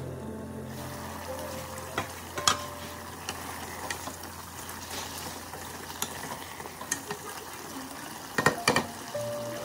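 Duck pieces sizzling in a large aluminium pot while a wooden spatula stirs and turns them, with occasional knocks and scrapes of the spatula against the pot, a quick cluster of them near the end.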